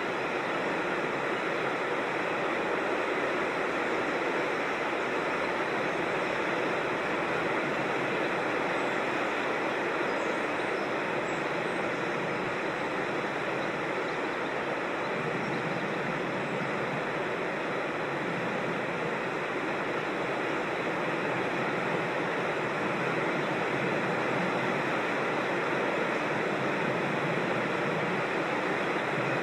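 Creek water rushing steadily, an even, unbroken wash of noise.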